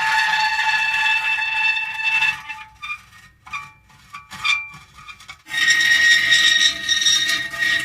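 Metal creaking and squealing in long, steady held tones. A little over two seconds in it breaks into short, scattered squeaks, then about five and a half seconds in a loud held squeal starts again.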